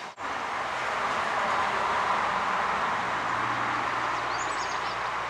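Steady rushing mechanical noise with a low hum, and a few short high bird chirps about four and a half seconds in.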